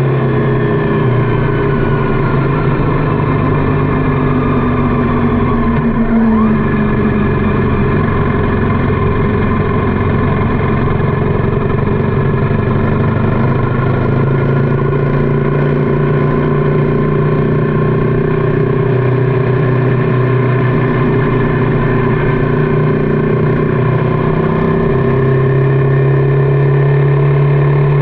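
Motorcycle engine running steadily while riding, a loud even drone whose pitch eases down over a few seconds near the start.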